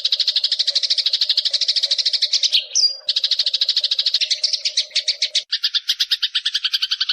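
A recorded songbird trilling in a fast, even run of repeated high chirps. A short whistle and a brief break come just before three seconds in. From about five and a half seconds it changes to a lower, fuller trill.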